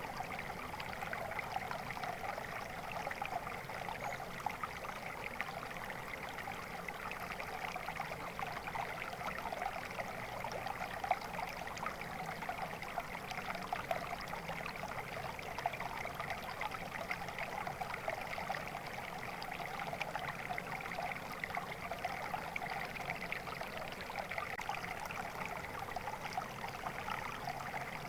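Flowing water running steadily: an even rush with fine trickling detail that never breaks or changes.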